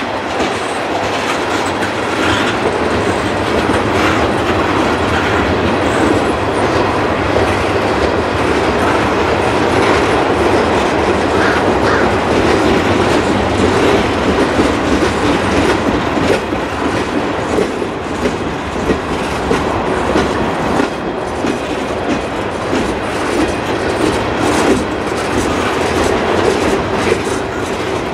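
Freight train tank cars and boxcars rolling past: a steady loud noise of steel wheels on the rails, with many small clicks as the wheels cross rail joints.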